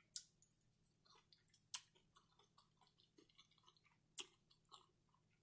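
Faint close-up chewing of a mouthful of cheesy shrimp nachos: soft wet mouth clicks and smacks, with a few sharper clicks, one near the start, one under two seconds in and one about four seconds in.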